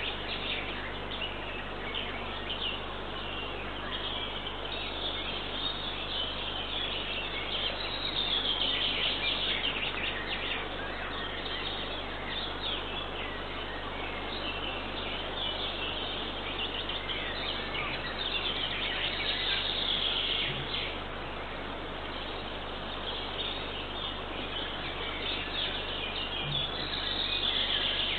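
Wild songbirds singing in the woods, with a steady hiss from a nest camera's microphone. The song swells about eight seconds in, again around twenty seconds, and near the end.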